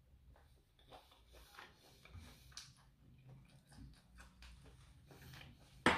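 A person chewing a mouthful of honey-roast duck: faint wet chewing with many small mouth clicks, and one sharp click near the end.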